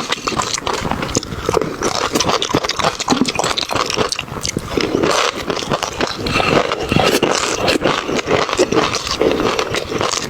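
Close-miked eating sounds: chewing and mouth smacking in a dense, irregular run of wet clicks.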